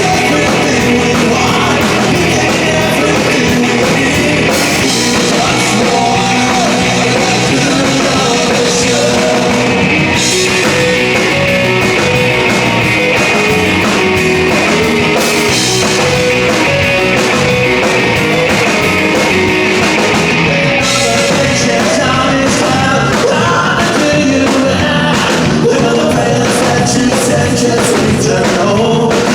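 Rock band playing with a singer: guitars, bass and drums at a steady, loud level throughout.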